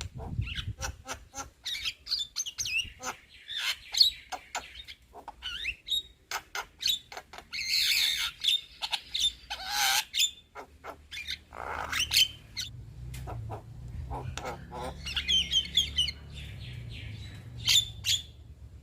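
Young Javan myna singing: a rapid, varied jumble of sharp clicks, short whistles and harsh squawks, with a loud rasping call about eight seconds in.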